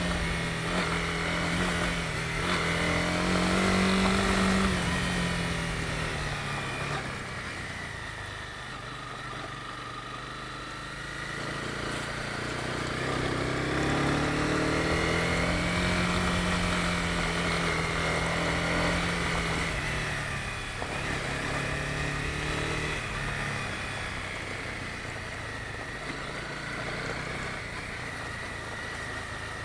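Honda CB250R's single-cylinder engine under way, pulling hard and then easing off twice as the rider rolls the throttle on and off.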